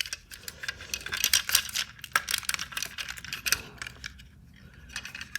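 Plastic transforming-robot toy being handled: quick, irregular clicks and small rattles of hard plastic parts, thinning out near the end.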